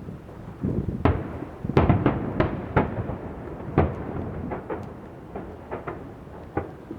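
Fireworks exploding in a rapid volley of deep booms and sharp cracks, loudest and densest between about one and four seconds in, then thinning to scattered smaller bangs.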